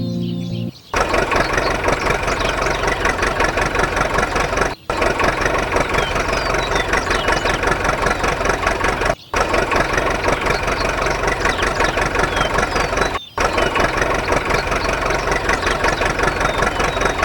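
A small engine or motor running with a rapid, even clatter, cut off briefly three times by edits about every four seconds.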